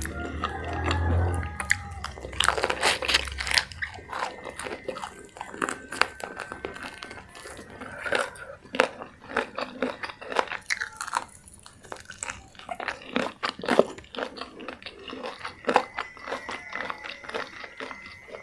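Close-miked eating: repeated crunchy bites and chewing of crisp food, irregular throughout, with a low rumble in the first few seconds.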